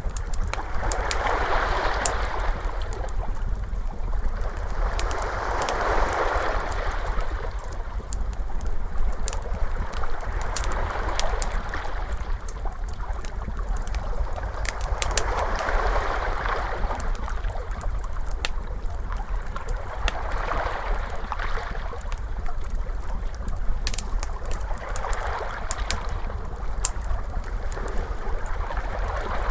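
Ocean waves washing in slowly, a swell of surf every few seconds over a steady low rumble, with a wood fire crackling in sharp scattered pops throughout.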